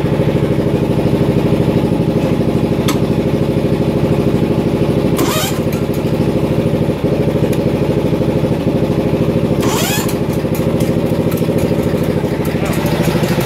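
Bolens garden tractor engine running steadily at an even idle, fed through new fuel lines, a new fuel filter and a cleaned mechanical fuel pump after a fuel leak.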